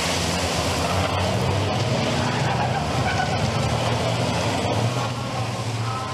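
Racing trucks' turbodiesel engines running at speed, a steady drone that fades a little near the end.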